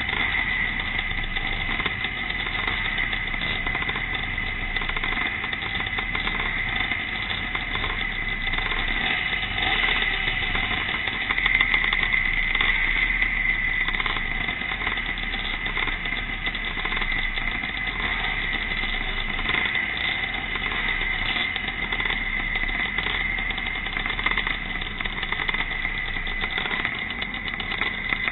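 Classic pre-1965 motocross motorcycles racing, their engines running continuously, a little louder for a couple of seconds near the middle.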